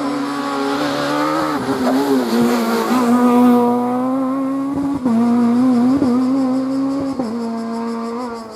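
Rally car engine at high revs on a special stage, its pitch dipping briefly about six times as the driver shifts or lifts, then fading near the end.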